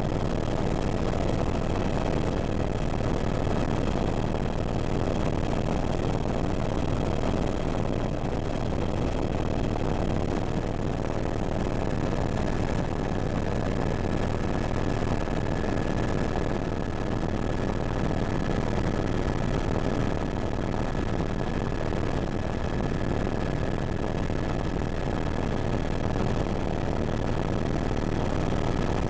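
Helicopter running with a steady, dense engine and rotor noise and a thin, high, unchanging whine over it.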